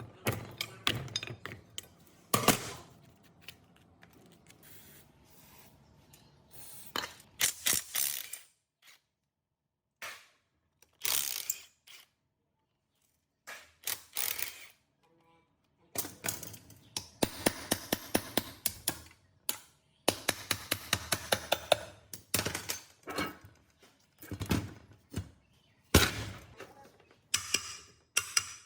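Sharp taps and knocks of tools on metal parts, coming in bunches with short silent gaps. Near the middle comes a fast run of taps at about four a second.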